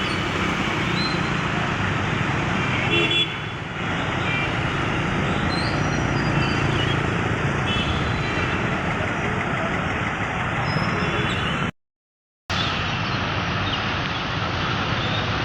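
Street noise: a steady, dense hiss of traffic with short vehicle-horn toots several times through it. The sound cuts out completely for under a second about twelve seconds in.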